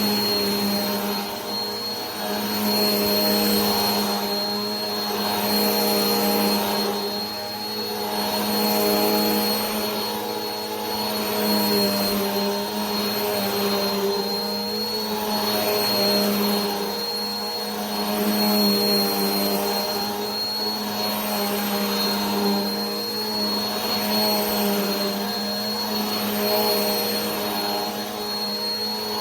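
Vacuum cleaner running continuously: a steady motor hum with a thin high whine over a rushing airflow noise that swells and eases about every two seconds.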